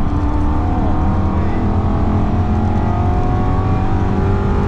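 BMW E92 M3's 4.0-litre V8 pulling hard under full throttle, its note rising steadily through one gear. Heard from inside the cabin over a heavy low road and wind rumble.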